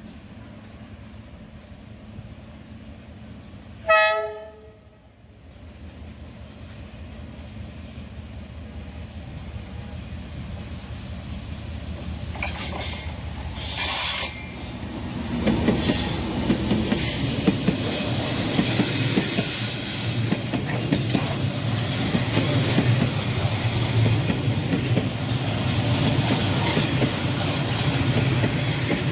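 A D19E diesel-electric locomotive sounds one short horn blast about four seconds in. The train's rumble then builds as it approaches and passes at full volume from about halfway, with wheel clatter and squeal on the rails.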